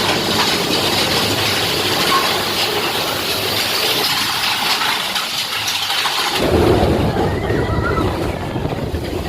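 Boat engine running, with wind buffeting the microphone. The noise changes abruptly about four seconds in and again past six seconds.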